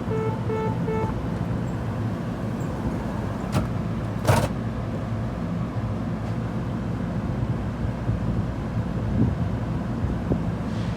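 Steady low rumble of a train running at the station, with a repeated beeping tone at about three beeps a second that stops about a second in, and a brief hiss about four seconds in.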